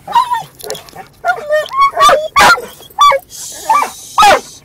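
Dog barking in an odd, sing-song way: a rapid string of short, high-pitched barks and yips with sliding pitch, about two a second.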